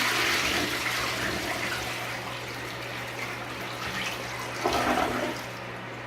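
TOTO dual-flush toilet flushing: water rushes into the bowl, eases off, then swells again with a brief gurgle about five seconds in before dying away. A steady low hum runs underneath.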